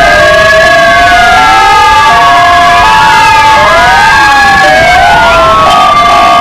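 Several electronic sirens sounding together, two from white Argentine Federal Police (PFA) motorcycles and two Kingvox ERP units. Their slow wails rise and fall out of step with one another, mixed with short steady tones stepping between pitches, all very loud.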